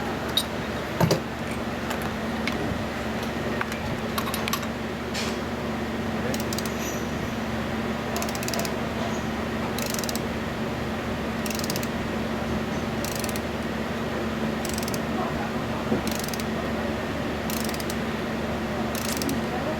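Hand work on air hammer parts: a few metal clicks about a second in, then short scraping strokes repeating about every one and a half seconds, over a steady workshop hum.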